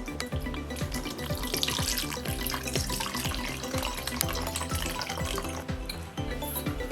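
Water pouring in to soak rinsed dried fruits and nuts, over background music.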